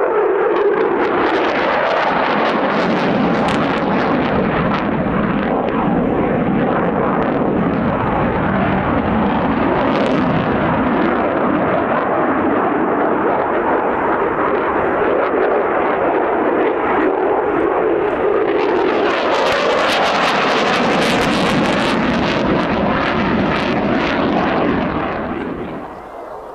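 Aircraft flying a display, a loud continuous roar that swells again about 19 seconds in and falls away near the end.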